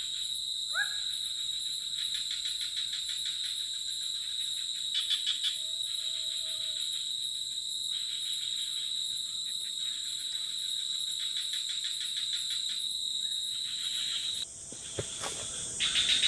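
Forest insect chorus: a steady high-pitched drone of crickets and other insects, with repeated stretches of fast pulsing trills. There is a brief rising call about a second in. Near the end the chorus drops out abruptly, and louder, closer pulsing follows.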